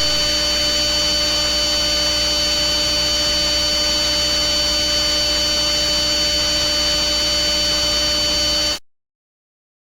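A loud, steady electronic hum with static hiss, several unchanging tones over a noisy bed. It cuts off abruptly about nine seconds in and starts again after a second of silence, as the loop repeats.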